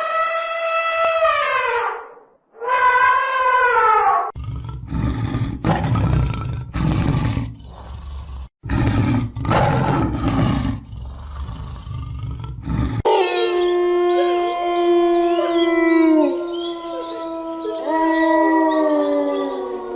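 Wild animal calls: two long howling calls that fall in pitch, then a run of deep, rough roars in repeated pulses, then several long howls overlapping one another to the end.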